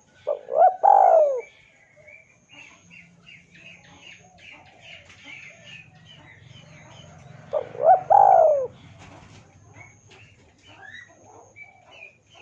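A dove cooing twice, about seven seconds apart. Each phrase is a short note followed by a longer arched coo lasting about a second. Small birds chirp faintly between the coos.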